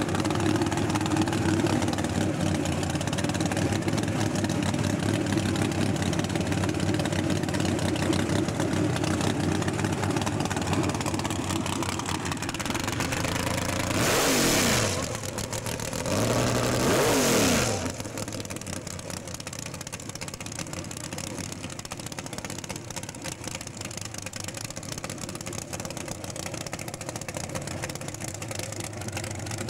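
V8 engine of a MK1 Ford Cortina drag race car idling, then revved twice about halfway through, each rev rising and falling back, before it settles to a quieter idle.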